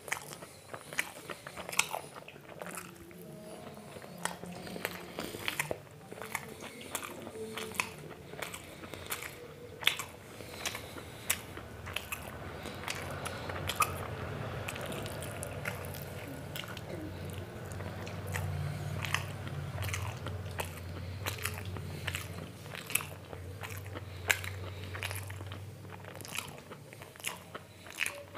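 A person chewing and biting food: a steady run of sharp mouth clicks and crunches, with a low steady hum under the second half.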